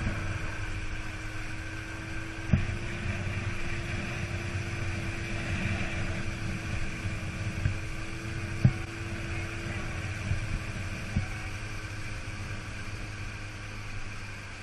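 Dinghy outboard motor running steadily at low speed, with a couple of sharp knocks.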